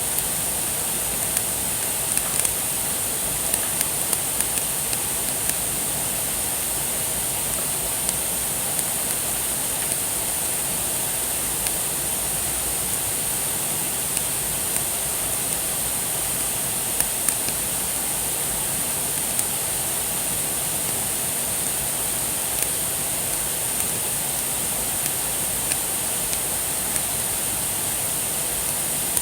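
Wood campfire burning: a steady hiss with scattered, irregular crackles and pops from the burning wood.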